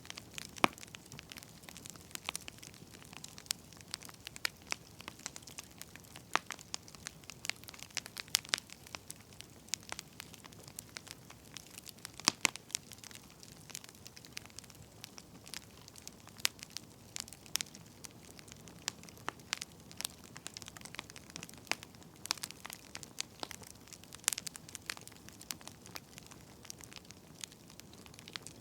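Firewood burning, crackling with irregular sharp pops and snaps, several a second, over a soft hiss.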